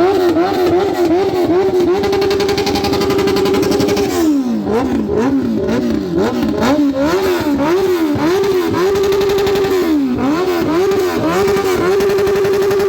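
A vehicle engine being revved hard, in rapid repeated blips a few times a second. Between the blips it is held steady at high revs for a second or two: about two seconds in, again around nine seconds, and near the end.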